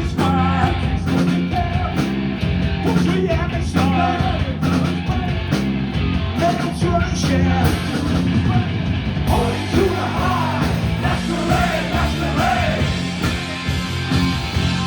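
Live punk rock band playing loudly: distorted guitars, bass and a steady drumbeat.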